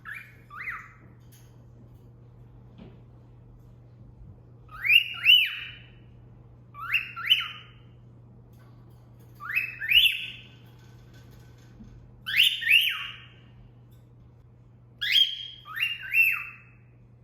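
Female cockatiel whistling a wolf whistle (cat call): about six short phrases of two or three quick swooping whistled notes, a couple of seconds apart. The first phrase is quieter.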